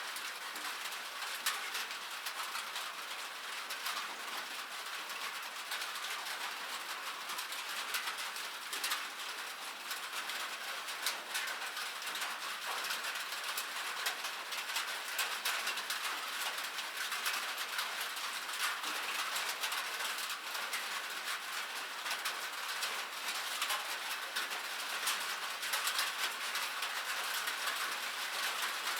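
Rain falling on metal: a dense, steady patter of countless small, sharp drop hits, bright and without any low rumble.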